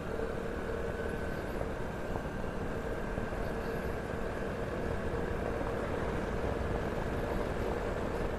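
Vespa scooter's single-cylinder engine running at a steady, even pitch while riding at constant speed, over a low rumble of road and wind noise.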